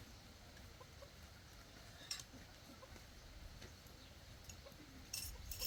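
Quiet background with scattered faint ticks and a sharper click about two seconds in, then a few bright clinks near the end.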